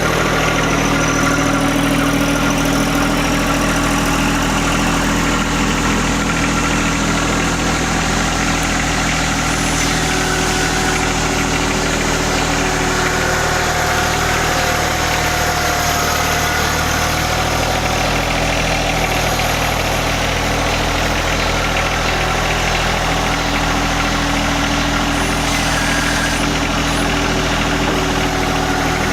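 John Deere 1025R sub-compact tractor's three-cylinder diesel engine running steadily.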